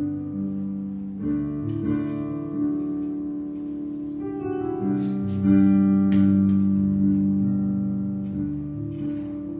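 Instrumental music: a plucked string instrument playing slow, ringing chords, with the loudest chord about five and a half seconds in.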